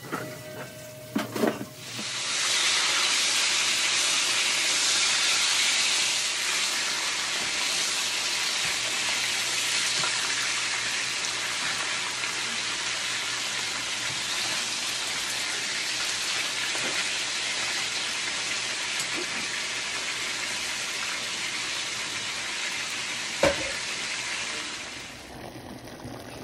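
Pieces of fish sizzling as they fry in oil in a frying pan: a steady sizzle begins about two seconds in and dies away near the end. A few clatters come at the start, and there is a single sharp knock shortly before the sizzle fades.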